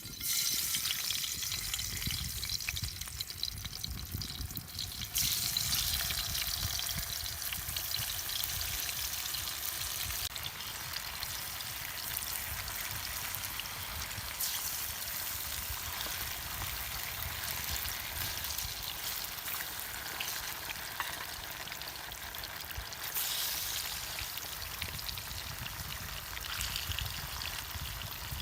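Fish frying, a steady crackling sizzle that starts suddenly and grows louder about five seconds in, with a low rumble underneath.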